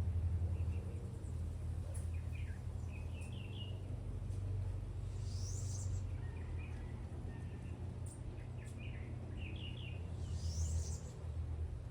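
Birds chirping in short clusters of quick notes, repeated every second or so, with a brief higher rising sweep about five seconds in and again near the end, over a steady low rumble.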